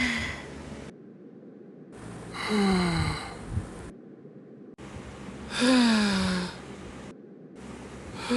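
An animated character's voice making short wordless sighs, each falling in pitch, one about every three seconds.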